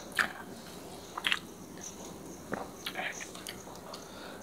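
A person chewing a mouthful of tandoori roti and chicken korma close to the microphone, with several short, sharp wet mouth clicks.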